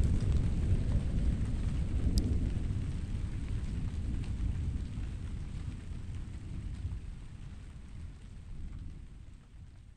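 Thunder: a long, low rolling rumble that fades steadily away over several seconds, with faint scattered raindrop ticks and one sharper tick about two seconds in.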